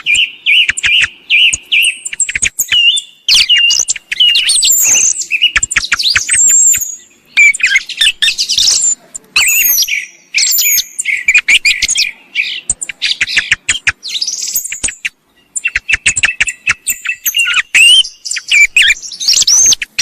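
Song thrush song and calls played as a hunting lure mix: dense, overlapping whistled phrases and sharp clicking notes, with short pauses about three-quarters of the way through.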